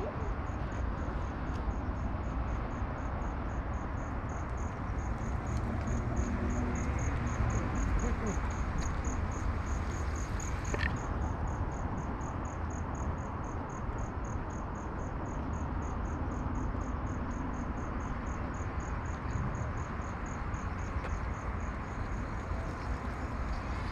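A cricket chirping in a steady, even train of short high pulses, about four a second, over a low steady rumble.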